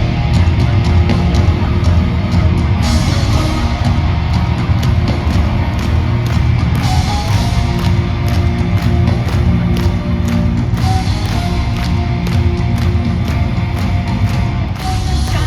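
Gothic metal band and orchestra playing live and loud, an instrumental passage driven by heavy drumming with a deep, dense low end.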